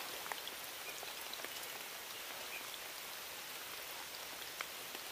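Light rain falling on a river's surface: a steady, quiet hiss of drops with many faint scattered ticks.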